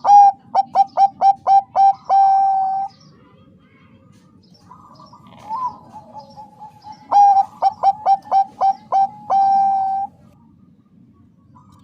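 Zebra dove (Bangkok-bred perkutut) cooing. It gives two loud phrases, each a quick run of about seven short clipped notes ending in one longer held note, with a softer call between them.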